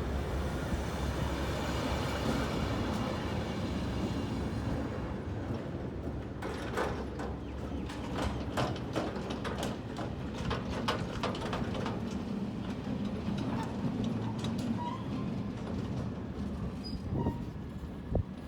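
R20-class diesel-electric locomotive hauling a freight train into a station: a steady low rumble for the first few seconds, then the wagons rolling past with a long string of irregular clacks from the wheels over the rail joints.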